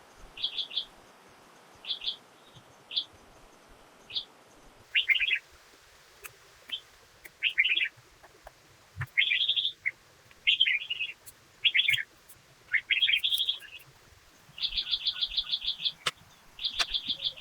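Songbird chirping in short, high, repeated phrases, the phrases growing longer and turning into rapid, even trills. A few faint clicks near the end.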